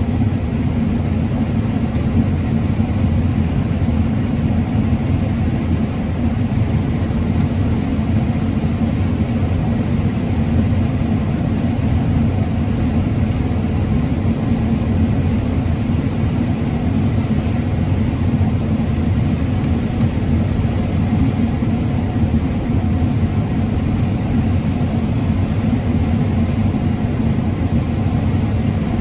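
Combine harvester running steadily while cutting corn, a loud even low rumble with a constant engine hum.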